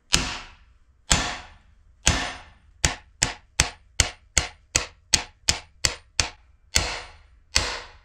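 Hammer blows on a driver knocking a cam bearing out of a CAT D4D engine block, metal ringing at each strike. Three heavy blows about a second apart, then a fast run of about ten lighter taps, then heavier blows again near the end.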